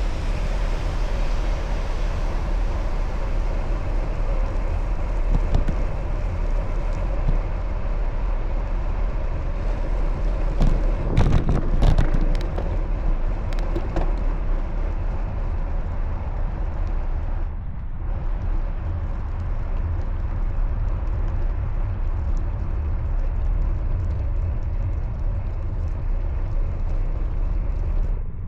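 Steady rumble of wind and road noise while riding a bicycle, with passing traffic and a few short clicks midway.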